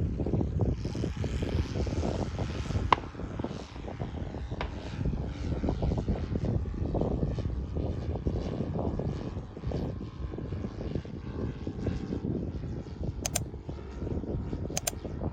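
Saito FG-33R3 three-cylinder gasoline radial engine on a large-scale RC Focke-Wulf Fw 190 model, running as the plane flies, its sound rising and falling. A few sharp clicks come near the end.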